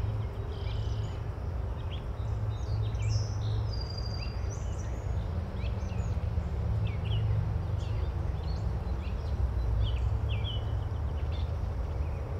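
Birds chirping and whistling in short scattered calls over a steady low rumble of outdoor ambience.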